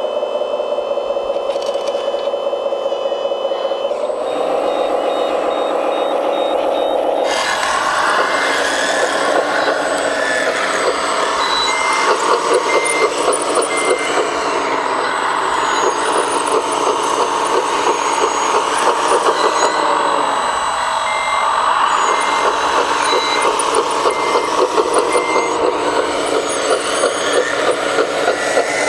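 Radio-controlled model trucks and construction machines running, with an engine-like drone that rises and falls and an intermittent reversing beeper sounding in short, evenly spaced beeps.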